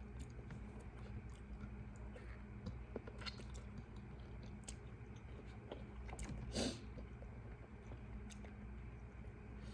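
A person chewing and eating seafood boil close to the microphone, with scattered small wet clicks and crunches and one louder brief sound about six and a half seconds in, over a low steady hum.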